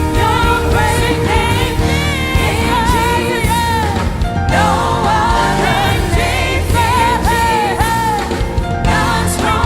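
Live gospel praise and worship music: singers holding bending, ornamented vocal lines over a band with steady bass.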